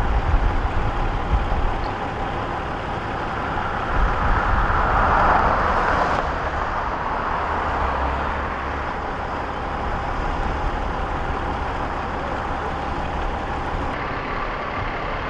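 A large vehicle engine running steadily, with a low rumble under outdoor noise that swells for a couple of seconds about four seconds in.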